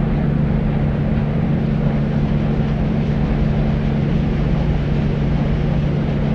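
Deep white noise: a steady, unchanging low-pitched hiss with a constant hum-like band in the low range and little treble.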